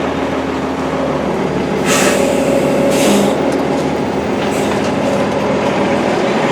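Steady vehicle running noise with a low motor hum, broken by two short hissing bursts about two and three seconds in.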